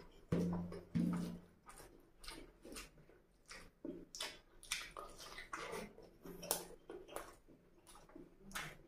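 Close-miked, mouth-closed chewing of a mouthful of rice and mutton curry: irregular soft wet clicks and smacks, with fingers squishing and mixing rice on a paper plate. Two short low hums come about a second apart near the start.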